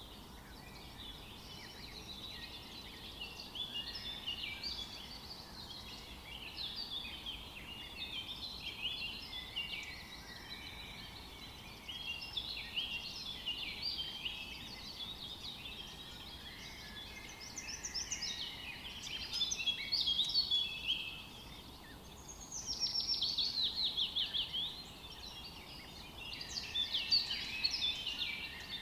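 Several songbirds singing at once in a forest, with overlapping chirps and warbling phrases. About two-thirds of the way through, one bird gives a louder, fast trill of rapidly repeated notes. A faint steady hiss runs underneath.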